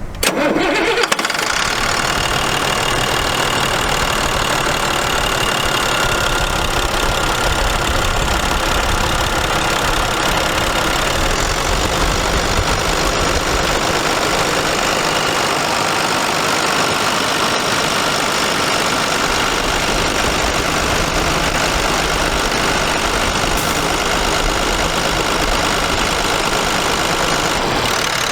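International DT466 straight-six diesel engine starting, catching within about a second, then idling steadily.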